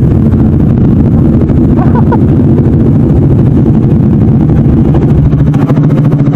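Motorcycle engine idling steadily, a low, rough, pulsing running sound close to the microphone.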